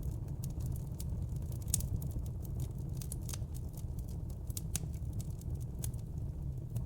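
Log fire burning in a fireplace: a steady low rumble of flames with frequent sharp, irregular crackles and pops from the burning wood.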